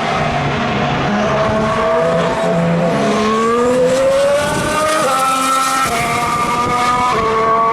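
2014 Formula 1 car's 1.6-litre turbocharged V6 accelerating through the gears, its pitch climbing and then dropping sharply at each upshift, twice in the second half.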